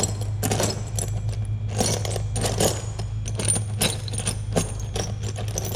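Steel bolts clinking and rattling as a hand sorts through loose hardware, in a string of irregular jangles, over a steady low hum.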